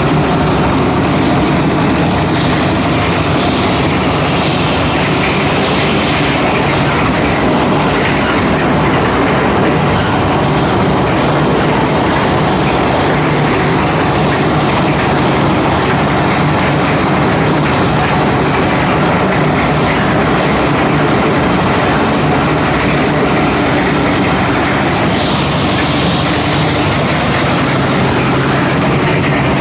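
Concrete mixer with a lift running: a loud, steady engine and machinery drone that does not change.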